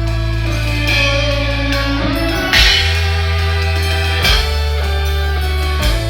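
Live band playing an instrumental passage led by guitar, over low sustained bass notes that change every second or two, with a few sharp drum hits.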